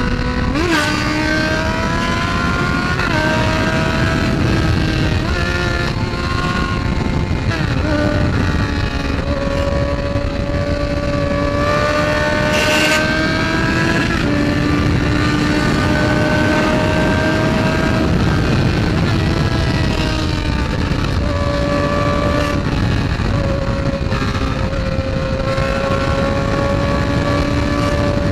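Motorcycle engine running at a steady cruise while riding, its note rising and falling slightly with a few brief dips, over heavy wind noise on the microphone.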